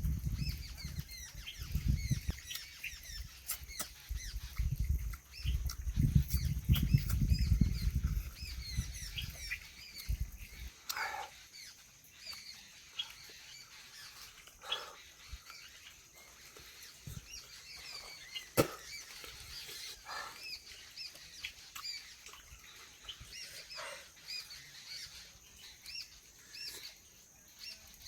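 Small birds chirping over and over, short quick calls, over a steady high drone such as insects make. A low rumble runs for the first ten seconds or so, and a few sharp clicks come in the second half.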